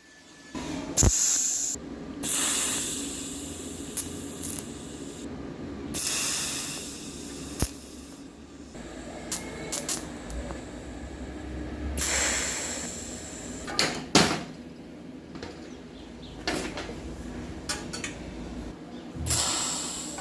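Repeated hissing spray bursts, five of them, lasting from under a second to a few seconds, with a few sharp clicks and knocks between them.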